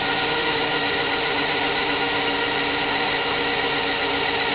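Traxxas Stampede electric RC truck's motor and drivetrain whining steadily at held throttle, its tyres spinning in place on the floor while the truck is stuck. The whine holds one even pitch, after two short throttle blips just before it.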